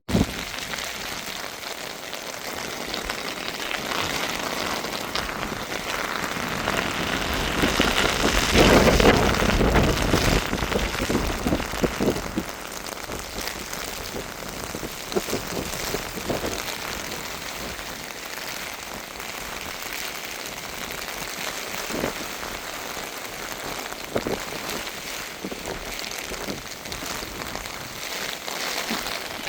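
Heavy rain from a hurricane falling steadily, a hiss with drops striking surfaces. It grows louder for a few seconds about eight seconds in, then settles back.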